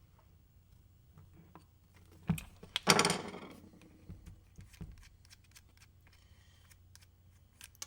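Metal wheel parts and tools handled during wheel disassembly: a few knocks, the loudest about three seconds in ringing briefly, then light clicks.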